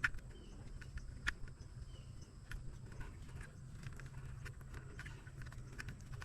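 Faint, scattered clicks and rustling from hands cutting and peeling the outer sheathing off electrical cable, over a steady low hum.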